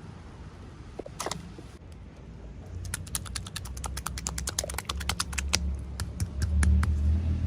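Rapid run of sharp clicks and crackles from packaging being handled and opened, about eight to ten a second for several seconds, with a low rumble growing louder near the end.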